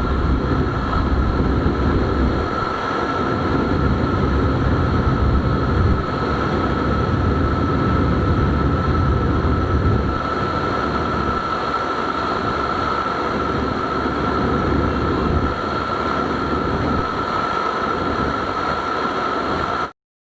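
Bajaj Dominar 250 motorcycle's single-cylinder engine running hard at high speed during a top-speed run, under heavy wind rushing over the microphone. A steady high whine runs throughout. The sound cuts off abruptly just before the end.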